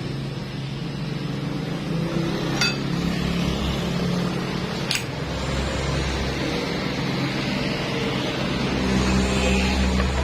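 Two sharp metallic clinks of engine parts or tools being handled, the first with a brief ring, over a steady low hum of a motor vehicle engine running in the background.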